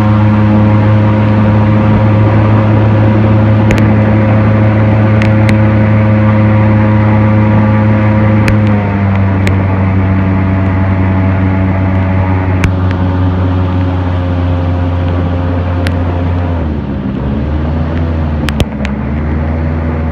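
Airboat engine and propeller running with a loud, steady drone; the pitch steps down about nine seconds in as it throttles back, then dips briefly and recovers near the end.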